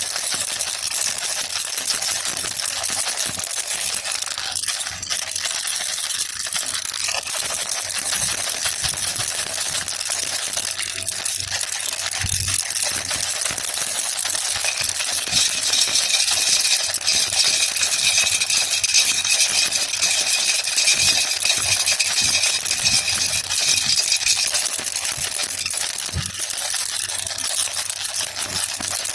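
Baby rattle (jhunjhuna) shaken continuously: a dense, steady rattle of small beads. From about halfway through, a high ringing tone sounds along with it for several seconds.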